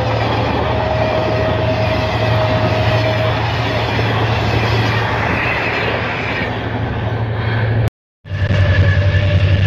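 Passenger coaches of a fast train rushing past on the track: steady loud rail noise with a low rumble, and a thin steady whine for a couple of seconds early in the pass. About 8 s in the sound cuts out sharply and comes back as the steadier hum of the Henschel diesel locomotive heard from inside its cab.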